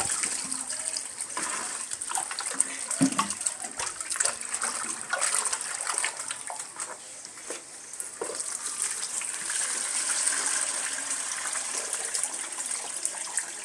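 Water splashing and sloshing as raw chicken pieces are rinsed by hand, with scattered small knocks among the splashes.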